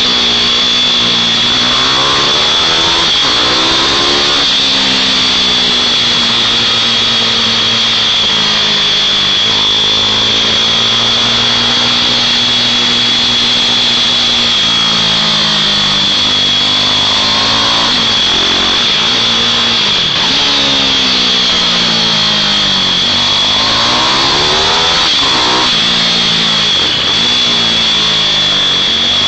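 Several small mini bike engines running on a circuit. Their buzzing notes rise and fall over and over as the bikes accelerate and ease off, with more than one bike heard at once at times. A steady high whine runs underneath.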